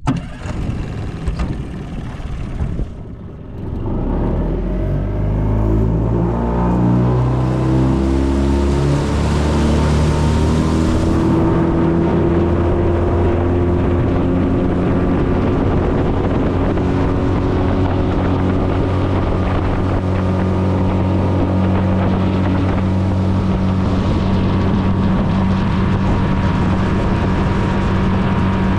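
New Yamaha 20 hp tiller-handle outboard motor throttled up: the engine note climbs over several seconds as the boat speeds up, then holds steady at high throttle, with wind on the microphone. It is running freely past the two-hour mark of its break-in.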